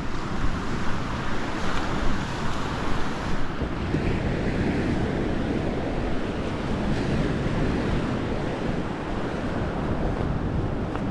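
Sea surf washing onto the shore, with wind buffeting the microphone in a low, fluttering rumble.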